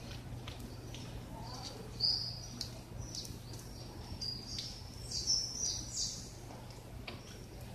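Birds chirping: a series of short, high chirps, the loudest about two seconds and five seconds in, over a steady low hum.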